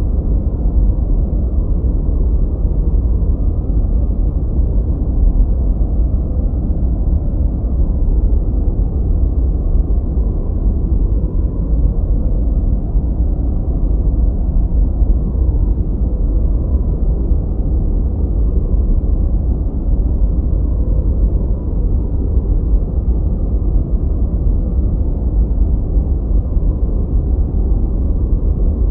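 Continuous generated noise track, sold as white noise, though it sounds deep and dark: an even rumbling hiss weighted to the low end with almost no treble. It stays level throughout, without any change or event.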